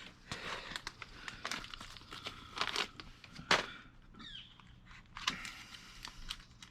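Hand work on a mini bike wheel hub while a wheel bearing is worked into its seat: scattered small metallic clicks and scrapes, with one sharper knock about halfway through.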